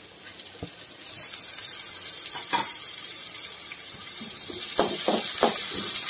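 Onions, green chillies and freshly added chopped tomato sizzling in hot oil in a kadai, the sizzle growing louder about a second in. A spatula stirs and scrapes against the pan several times.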